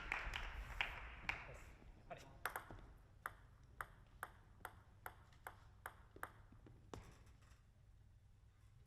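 Celluloid-style plastic table tennis ball clicking in a steady series, about two and a half short pings a second, as applause dies away.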